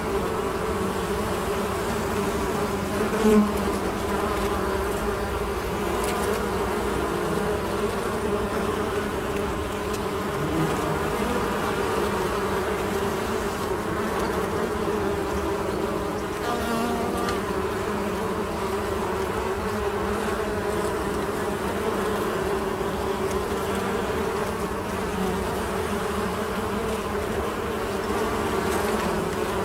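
Honey bees buzzing in a steady, continuous drone, with a brief louder swell about three seconds in.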